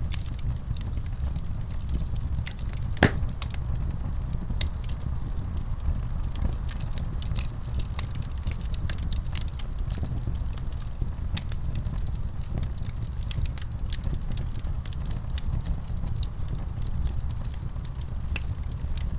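Wood fire burning with a steady low rumble and many irregular sharp crackles and pops, one louder pop about three seconds in.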